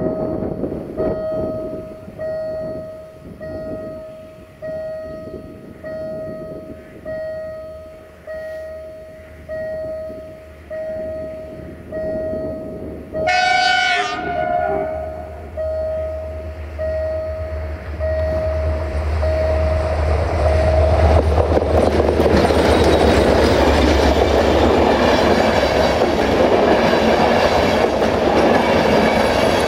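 Level-crossing warning bell ringing just under once a second while a CFR Class 65 'Jimmy' diesel-electric locomotive approaches; about 13 seconds in the locomotive sounds one horn blast of about a second. The locomotive's diesel engine rumble then builds, the bell stops about 21 seconds in, and the passenger coaches pass with a steady roar of wheels on rail.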